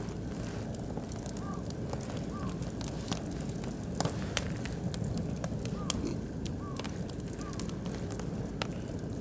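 Oak and beech wood fire burning in a barbecue grill, crackling with irregular sharp pops over a steady low rumble of the flames.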